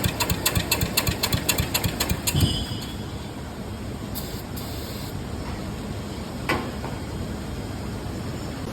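Cub Cadet lawn tractor engine cranked over by its starter for about two and a half seconds, an even rapid chugging, without catching. Then only a quieter steady background, with a single sharp click about six and a half seconds in.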